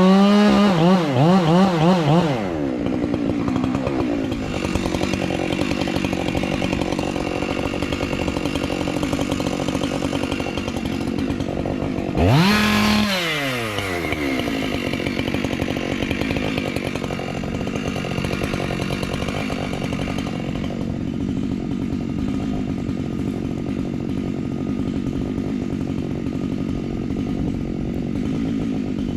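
Chainsaw running at high revs with a wavering pitch, then dropping to a lower, steady run about two seconds in. About twelve seconds in it revs up sharply once and falls back, then keeps running steadily.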